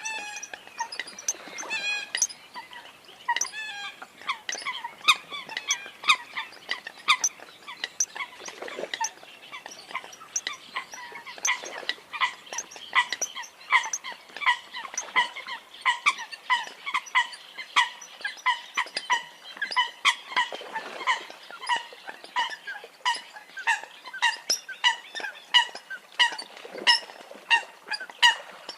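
Eurasian coots calling: short, sharp, honking notes repeated about two a second without a break.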